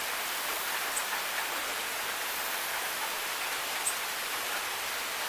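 Steady rain falling, an even hiss of drops with a few brief sharper drop sounds.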